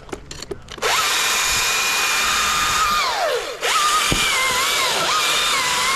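Battery-powered chainsaw revving in two bursts. The electric motor's whine spins up about a second in and winds down after about two seconds, then spins up again, its pitch dipping and recovering as if under load.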